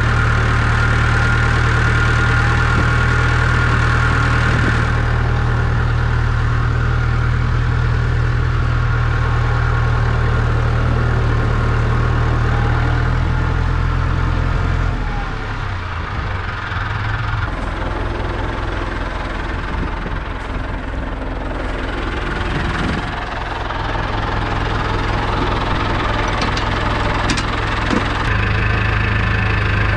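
Tractor engine idling steadily; about halfway through its note shifts and drops a little, then settles back.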